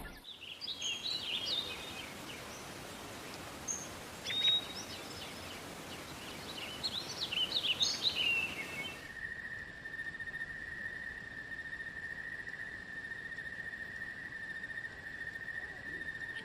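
Rainforest ambience: birds giving short chirping calls over a steady hiss. About nine seconds in it changes abruptly to a single steady, high insect trill.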